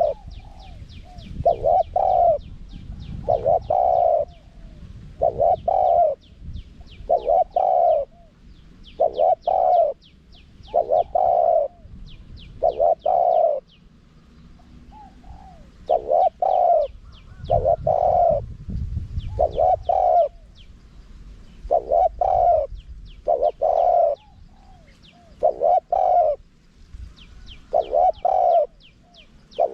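Spotted dove cooing over and over in a high-voiced wild style, short coos mostly in close pairs every second or two. Fast, thin, high chirping trills run behind the coos.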